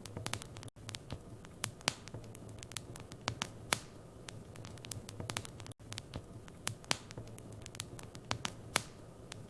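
Wood fire in a fireplace crackling, with irregular sharp pops and snaps over a low steady hum and faint hiss. The sound cuts out for an instant twice.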